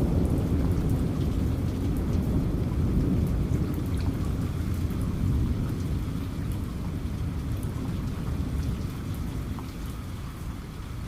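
Steady rain with scattered sharp drop ticks, under the low rumble of thunder that slowly dies away.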